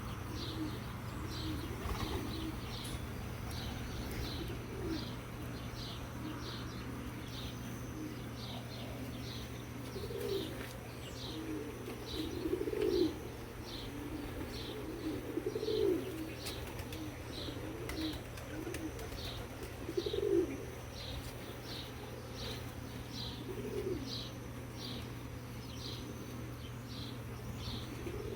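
A dove cooing every few seconds, its calls loudest in the middle stretch, over a small bird's short high chirp repeated about once a second.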